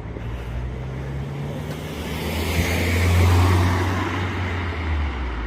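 A road vehicle passing by: engine hum and tyre noise swell to a peak about three seconds in, then fade as it moves away.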